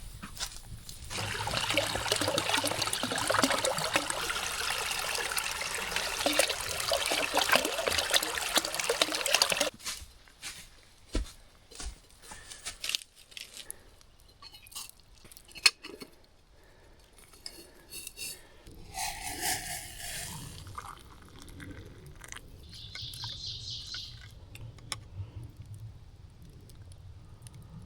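Water rushing for about eight seconds, then cutting off suddenly, followed by light scattered clicks and knocks.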